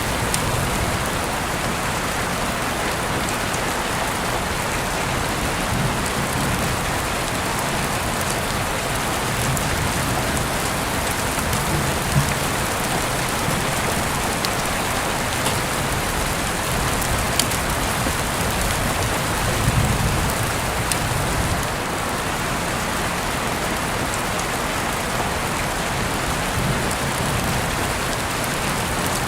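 Heavy rain falling steadily, with sharp ticks of single drops here and there and a few soft low rumbles.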